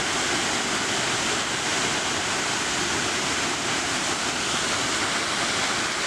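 Waterfall pouring in full flow, a steady rush of falling, foaming water.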